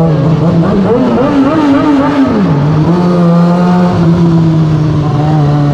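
2004 Kawasaki ZX-6R's inline-four engine running under way, its pitch wavering at mid revs, then dropping sharply a little over two seconds in and holding steady after that.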